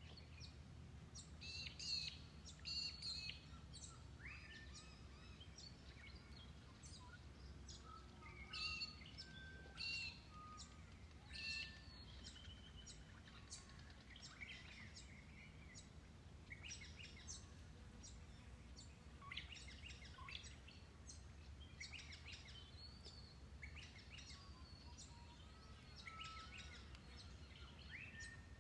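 Wild birds calling in the bush: many short chirps and whistled glides from several birds, scattered throughout, over a faint steady low rumble.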